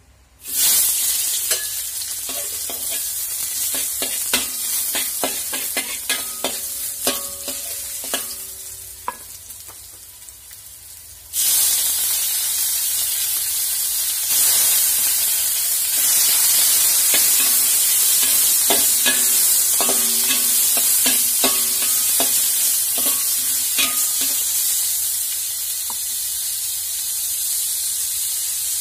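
Garlic cloves sizzling in a little hot oil in a metal wok, with a spatula clicking and scraping against the pan as they are stirred. About eleven seconds in, the sizzle suddenly grows louder and stays so, with raw chicken pieces now frying alongside the garlic while the stirring goes on.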